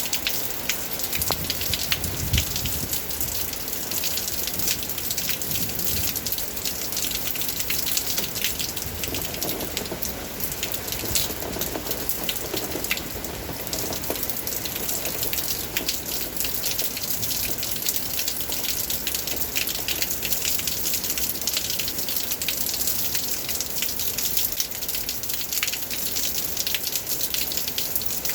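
Steady rain falling, a dense even hiss dotted with many sharp drop hits.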